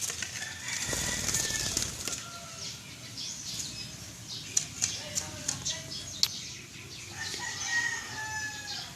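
A Philippine hanging parrot (colasisi) flaps its wings in a brief flurry about a second in and gives thin, high chirps throughout. Several sharp clicks come in the middle.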